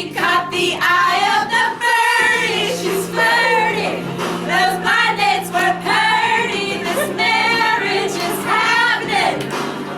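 A group of voices singing over instrumental backing music, the pitch of the voices wavering and gliding, with held low notes underneath.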